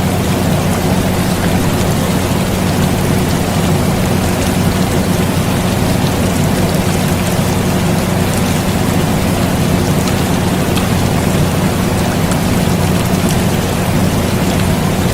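Air conditioner running with a steady low hum, mixed with rain falling steadily.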